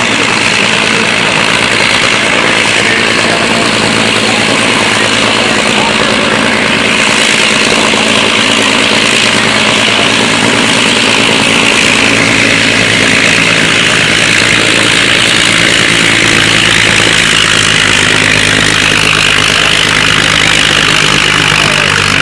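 Aircraft engine running steadily at the flight line: a loud, even rush of engine noise that holds without a break.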